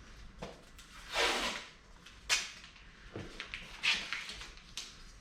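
Handling noises: a short swell of scraping or rustling about a second in, then a few sharp knocks and clicks, over a low hum.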